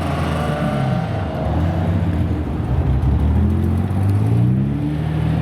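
Supercar engines revving and accelerating, several engine notes overlapping; the pitch drops about a second in and climbs again around three to four seconds in.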